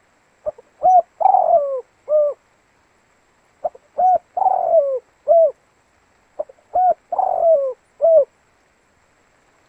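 Spotted dove cooing: the same phrase three times, about three seconds apart. Each phrase is a couple of short coos, then a longer coo that falls in pitch, then a short closing coo.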